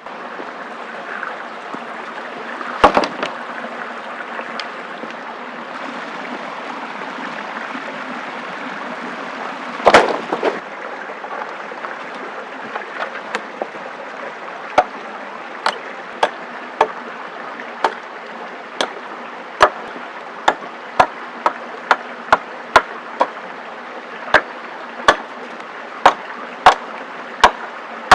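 A steady hiss with two loud knocks early on, then a long run of sharp cracks or knocks, about one to two a second, from about halfway in.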